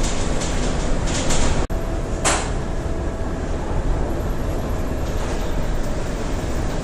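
Steady heavy rumble and rushing noise of storm wind and sea around a ship, with a momentary break in the sound about two seconds in.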